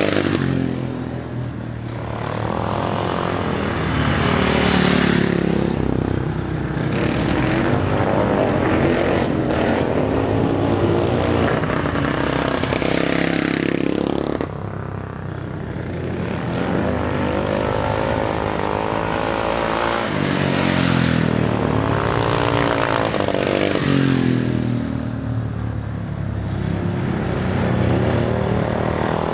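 Speedway motorcycle's single-cylinder engine lapping a dirt oval, its revs rising as the rider opens the throttle and falling as he eases off into the turns, over and over about every ten seconds.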